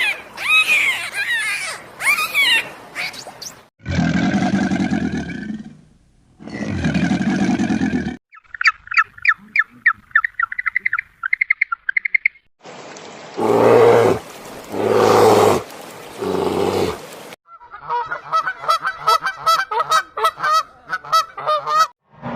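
A run of separate farm animal calls, one after another: a few rising and falling calls, two long low calls, a fast high chirping trill, three more long low calls, then a rapid pulsing call.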